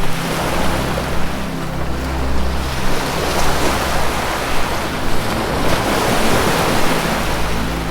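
Ocean waves surging and washing, swelling in the middle, over a low sustained drone of ambient music.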